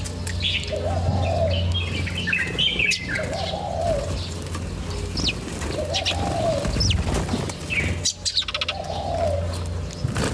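A dove cooing, a low arched call repeated about every two seconds, with small birds chirping and tweeting higher up and a steady low hum underneath.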